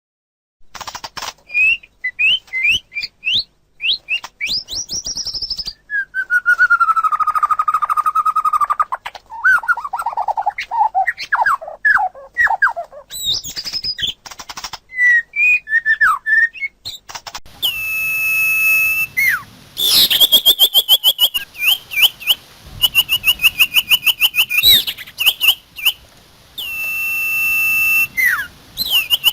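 Common iora and white-rumped shama singing: a rapid, varied stream of whistles, chirps and trills, with fast runs of repeated notes in the second half.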